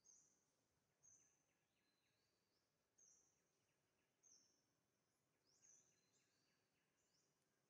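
Very faint, high-pitched bird calls: five short notes, each sweeping up and then holding briefly, a second or so apart, over faint background hiss.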